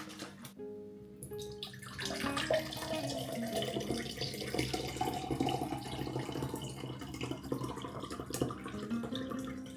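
Water running steadily from a tap, starting about two seconds in and easing off near the end, with soft background music underneath.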